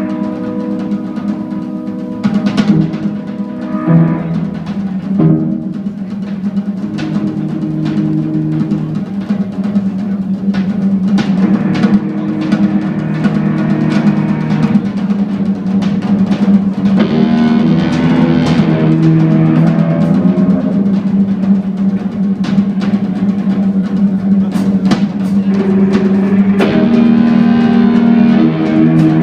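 Live instrumental jazz-rock from a keyboard, bass and drums trio. The drum kit plays busy strokes and rolls over sustained low notes that shift every second or two.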